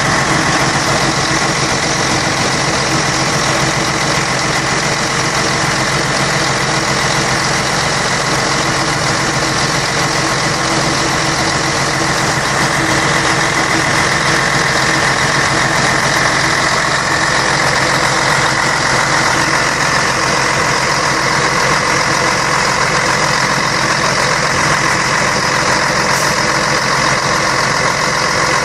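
Scania K113 bus's 11-litre straight-six diesel engine running steadily, an even drone with a steady high whine over it.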